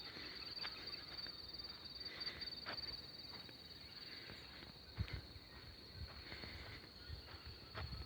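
A steady, high-pitched insect trill that runs unbroken, with scattered faint clicks and a few soft thumps, the clearest about five seconds in.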